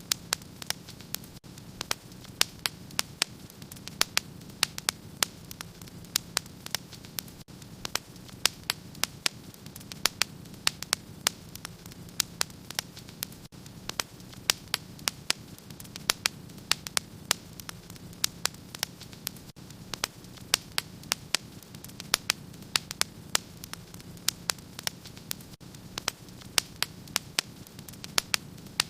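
Wood fire crackling in a fireplace: sharp pops and snaps, several a second at irregular spacing, over a steady low hum.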